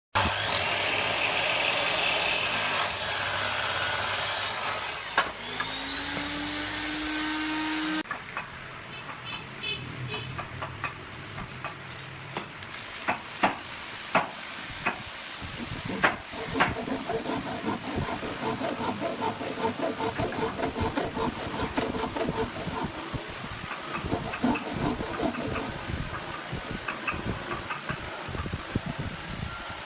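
Woodworking shop sounds of boards being worked with tools. For the first eight seconds there is a loud steady noise with gliding whines, then it cuts off. After that come repeated sharp knocks and clicks over a quieter running noise.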